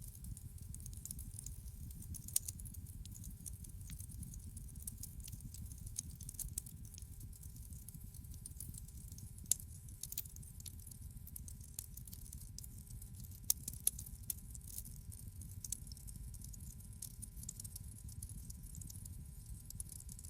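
Wood fire crackling in a fireplace: a steady low rumble of flames with scattered small crackles and a few sharper pops, the loudest about two, nine and a half, and fourteen seconds in.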